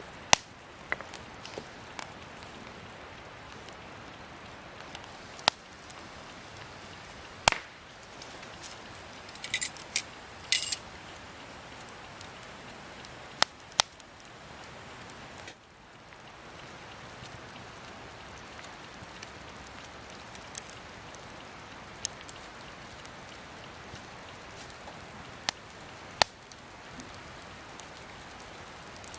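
Wood campfire crackling: a steady hiss with irregular sharp pops and snaps, a short flurry of them about ten seconds in.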